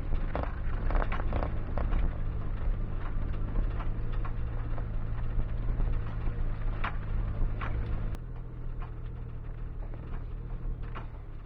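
Suzuki Jimny JB23's small three-cylinder engine running steadily while driving, with scattered clicks and rattles over it. The engine sound drops a step about eight seconds in.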